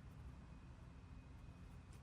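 Near silence: faint room tone with a low steady rumble.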